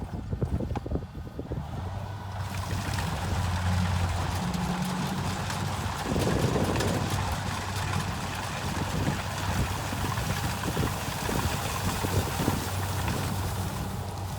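Kubota rice combine harvester running steadily: a low, even engine drone, joined about two seconds in by a broad rushing noise of the working machine.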